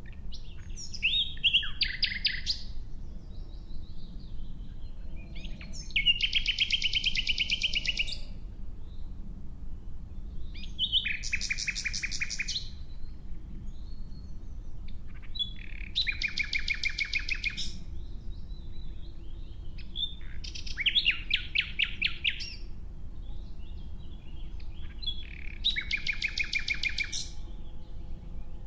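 Nightingale singing: six separate song phrases, one about every five seconds, each a rapid run of repeated high notes lasting a second or two, with pauses between them.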